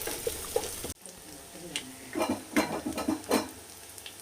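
Spatula stirring and scraping food that is frying in oil in a pan, over a sizzle. The sound drops abruptly about a second in, then comes back as a few separate scraping strokes.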